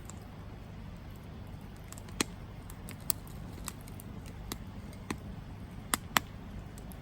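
Wood campfire burning, with a low steady rumble and scattered sharp crackles and pops; the loudest pops come about two seconds in and as a close pair near the end.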